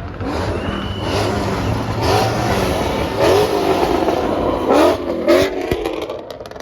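Modified car engines revving hard as the cars accelerate away, the pitch climbing in several rising sweeps, with a few sharp exhaust cracks about five to six seconds in.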